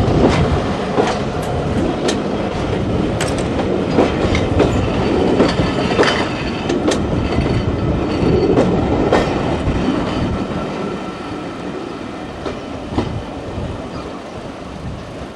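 Train passing on the line, its wheels clicking repeatedly over the rail joints, the sound slowly fading as it moves away.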